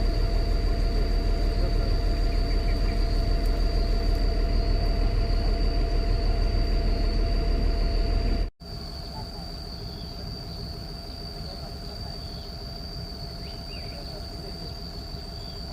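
Excavator's diesel engine running steadily, with a constant high whine over it. About eight and a half seconds in the sound cuts off abruptly and comes back noticeably quieter.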